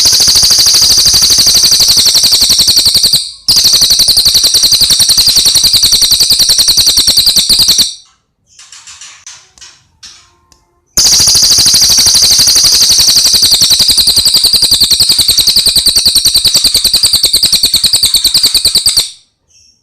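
Cililin bird singing: a loud, very fast, high-pitched rattling trill held for seconds at a time. It comes in three long bursts, with a short break about three seconds in and a pause of about three seconds in the middle, where only faint, softer chirps are heard.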